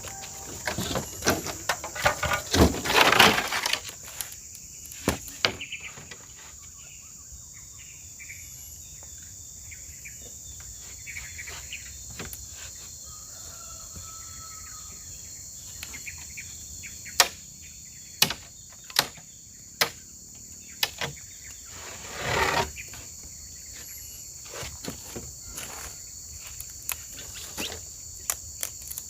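Steady high-pitched chorus of insects chirping. Scattered sharp knocks run through it, and two louder rustling bursts come near the start and about two-thirds of the way through.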